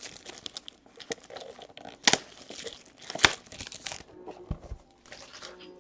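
Foil trading-card pack wrappers crinkling and being torn open, with two sharper rips about two and three seconds in.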